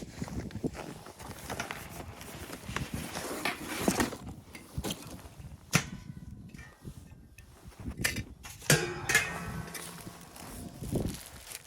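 An irregular series of sharp knocks, clicks and clatters, with a short scraping creak about nine seconds in.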